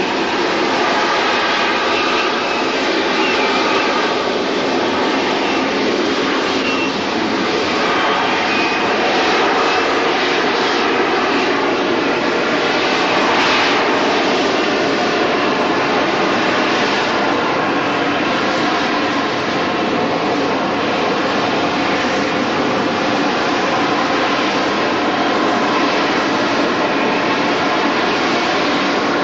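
Jet aircraft engine running loudly and steadily, with a faint whine in the noise; it swells slightly about halfway through.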